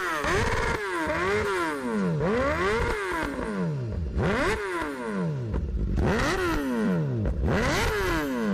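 Tuned motorcycle engine revved over and over in quick blips, about one a second, each rising sharply in pitch and falling back to idle.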